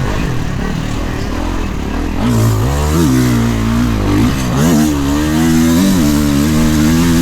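Kawasaki KX450 motocross bike's single-cylinder four-stroke engine under hard riding. The throttle is opened and chopped repeatedly, so the engine note climbs and drops several times, with quick rises about two and a half, three, four and a half and six seconds in.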